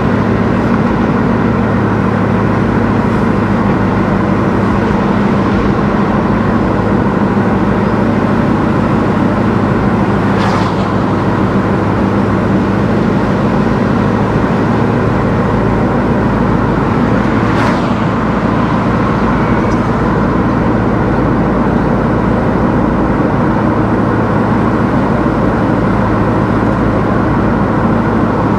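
Car driving along a road: steady engine hum and road noise, with two brief whooshes, one about ten seconds in and one about eighteen seconds in.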